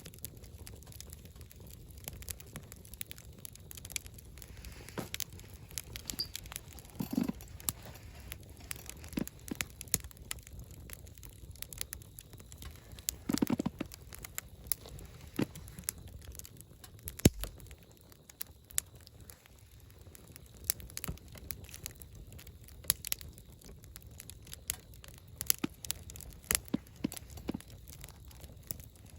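Wood campfire burning and crackling: irregular sharp snaps and pops over a low steady rumble of flame, with a few louder pops, the loudest about seventeen seconds in.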